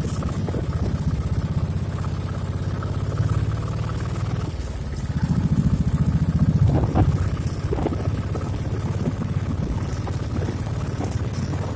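Motorcycle engine running as the bike is ridden, a steady low drone that grows louder for a couple of seconds about halfway through.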